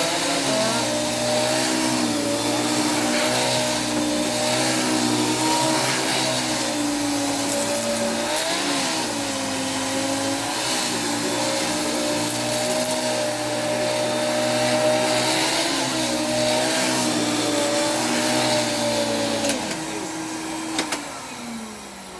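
Hoover Dimension 1000 vacuum cleaner motor running steadily, its pitch wavering a little as the load changes. Near the end it is switched off and winds down with a falling whine.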